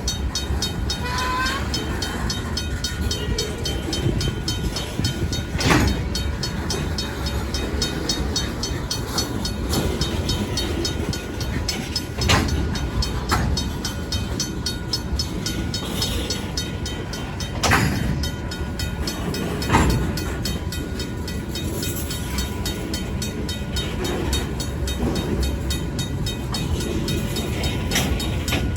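Freight cars of a Union Pacific local rolling slowly through a grade crossing: a steady rumble of wheels on rail, with a few sharp clanks. A crossing's mechanical bell ticks rapidly and evenly throughout, and a brief wheel squeal comes about a second in.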